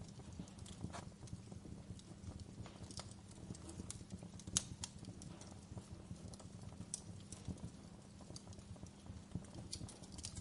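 Wood fire crackling: logs burning with irregular small snaps and pops over a low steady rumble, one sharper pop about halfway through.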